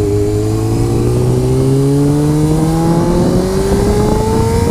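Honda CBR motorcycle engine accelerating as the bike pulls away, its pitch rising slowly and steadily, with wind rumble on the microphone underneath.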